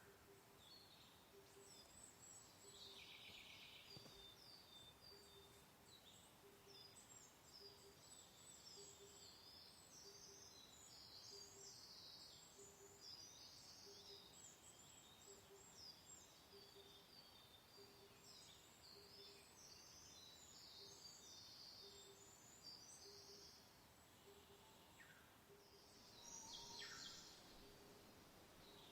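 Quiet birdsong: many small birds chirping and twittering in quick high notes, thickest through the middle and again near the end, over a faint even hiss. A low short pulse repeats steadily a little faster than once a second underneath.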